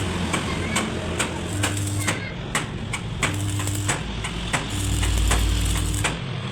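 Metalworking on a truck axle tube: irregular sharp metal clicks and taps over a low electrical hum that switches on and off every second or so, with a low rumble about five seconds in.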